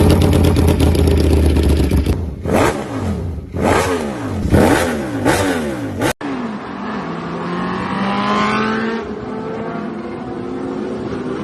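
Motorcycle engine revved hard several times, its pitch rising and falling quickly. After a sudden cut about six seconds in, an engine runs under acceleration with its pitch climbing steadily.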